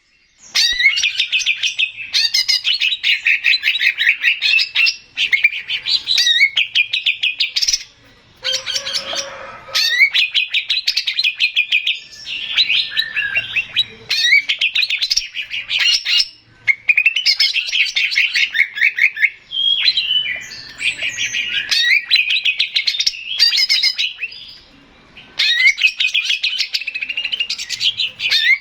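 Male cucak ijo (greater green leafbird) singing: loud, rapid trilled phrases of fast repeated notes, each a second or two long, broken by short pauses.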